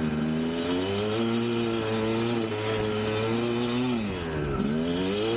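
1999 Kawasaki KX250 single-cylinder two-stroke dirt bike engine revving hard and held at high revs. Its pitch drops sharply about four and a half seconds in as the throttle is rolled off, then climbs straight back up.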